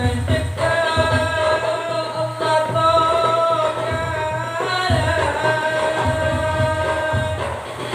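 Madurese sholawat sung with long held, wavering notes over pulsing hand-drum percussion.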